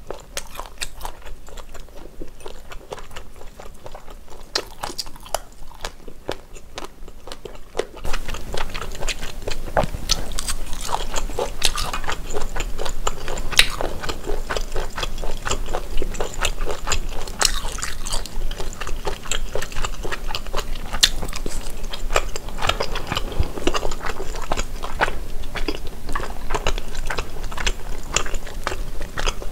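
Close-miked chewing and biting of Korean snack-bar food, sundae (blood sausage) with offal and chewy tteokbokki rice cakes, as a run of wet mouth clicks and smacks. The sound gets louder about eight seconds in.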